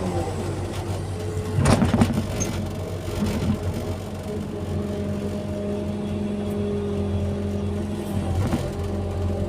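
Excavator's diesel engine running steadily, with a loud burst of clattering about two seconds in and a smaller one near the end.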